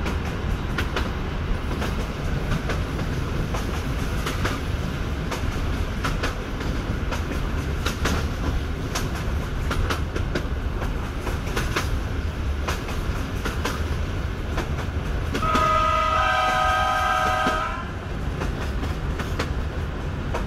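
EN57 electric multiple unit running at speed, heard from inside the carriage: a steady low rumble with sharp rail-joint clicks. About fifteen seconds in, the train's horn sounds for about two seconds, a second, higher tone joining partway through.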